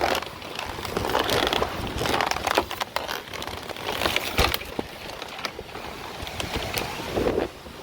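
Storm wind buffeting the microphone in uneven gusts, with irregular knocks and rattles of wind-blown material throughout.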